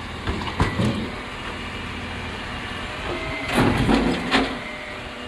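A vehicle engine running steadily. A few sharp knocks come near the start, and a louder clattering burst about three and a half seconds in.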